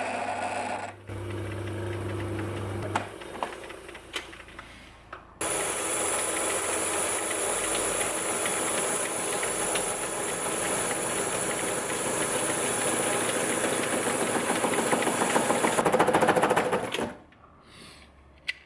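Myford S7 lathe running while machining an aluminium pulley blank: a quieter machine hum at first, then a much louder stretch of turning with a high whine that starts suddenly about five seconds in and stops about seventeen seconds in.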